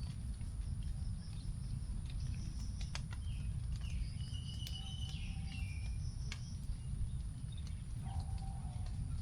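Last raindrops dripping onto forest leaves in scattered light ticks, with birds calling: a warbling phrase from about three to six seconds in and a short lower whistle near the end. Under it runs a steady high insect drone and a low rumble.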